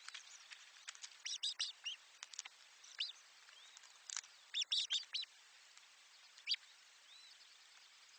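Small birds at a nest chirping: short, high, sharp chirps in scattered clusters, a quick run of them about a second and a half in and again around four and a half seconds in, with single chirps between and a quieter stretch near the end.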